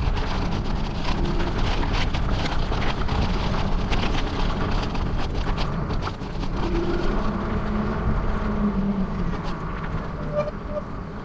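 Riding noise from a moving bicycle: a steady low rush of wind and road noise with scattered clicks and rattles.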